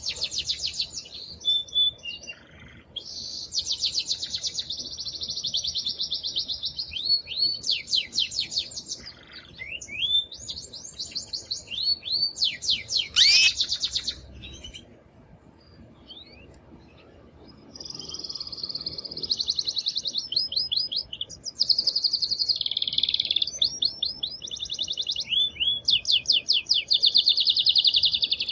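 Male canary singing an excited courtship song: long phrases of rapid, high-pitched trills and rolls, one after another. The song breaks off for a few seconds about halfway, then resumes with more trills.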